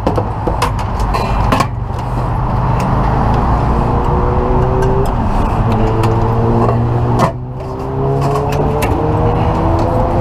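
Motor vehicle engines running in road traffic, with several engine tones slowly rising in pitch as vehicles gather speed. A few clicks and knocks in the first two seconds.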